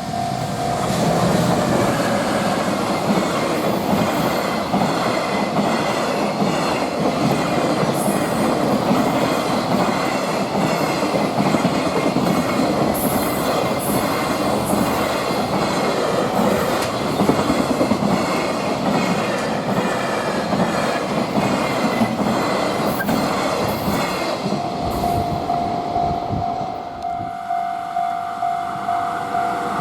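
A freight train passes close by, its wheels clattering over the rail joints with occasional sharp high squeals. A level crossing warning bell rings in a steady rapid rhythm, covered by the train's noise and heard clearly again near the end as the train clears.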